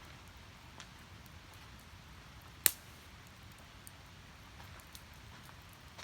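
Firewood burning in a small steel fire pit: faint scattered crackles, and one loud sharp pop a little under three seconds in.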